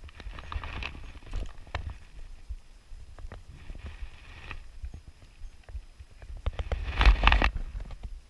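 Close handling noise: scattered knocks and clicks with short stretches of rustling, the loudest burst about seven seconds in.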